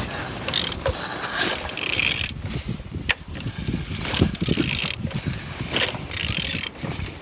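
Renault M9R 2.0 dCi diesel engine being turned over by hand in a series of strokes, with the clicking and whirring of the crank and gears turning; it turns good, freely and without binding.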